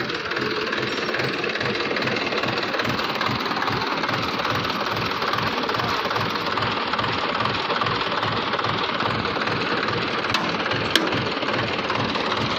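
Tractor diesel engine running steadily with an even low thudding beat, about four a second. Two sharp clicks near the end.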